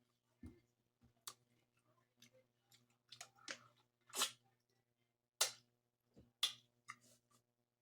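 Close-miked mukbang eating of buttery seafood boil: scattered wet lip smacks and chewing clicks, a few sharper ones in the middle.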